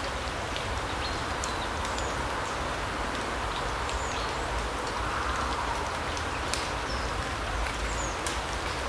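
Forest ambience: small birds giving short, high chirps and ticks, scattered throughout, over a steady rushing background noise.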